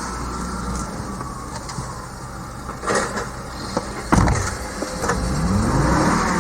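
Hummer H3's 3.7-litre inline-five engine idling, then revving up with rising pitch near the end, with two sharp knocks in the middle.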